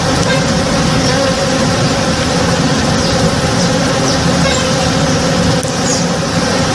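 Many honey bees buzzing together while foraging, a dense steady hum.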